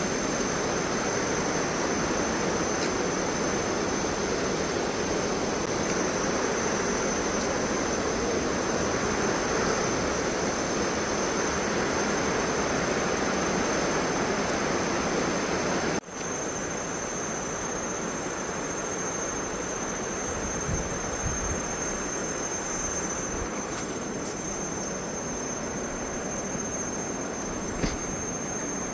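Waterfall: a steady, even rush of water falling from a high drop. About halfway through it breaks off for an instant and goes on slightly quieter.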